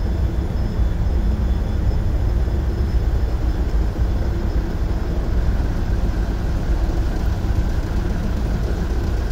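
Steady, loud din of a cargo ship's engine room: the 2500 kW main diesel engine and its auxiliary machinery running, heaviest in the low end, with a faint steady high whine on top.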